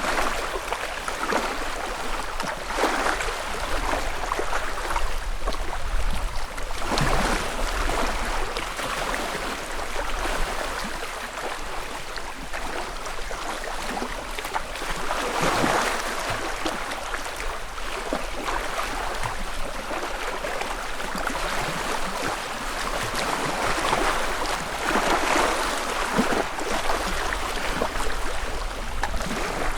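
Small lake waves lapping on the shore, a steady wash with a gentle splash swelling up every few seconds.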